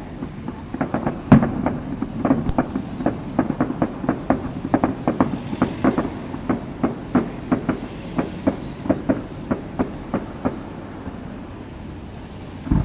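Fireworks bursting in a rapid barrage of bangs, about four a second, that stops about ten seconds in, followed by a louder double bang near the end.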